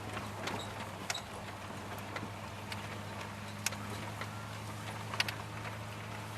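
A 1992 Dodge Dakota pickup running on wood gas, heard from inside the cab while driving: a steady low engine hum, with a few sharp clicks or rattles from the cab.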